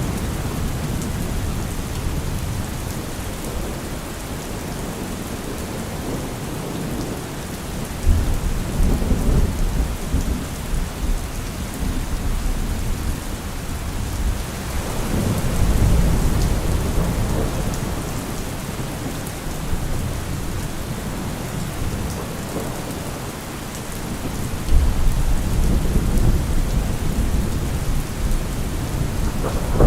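Steady rain falling with thunder rumbling over it: a sudden loud rumble about eight seconds in, another swelling up around the middle, and a sharp one a few seconds before the end.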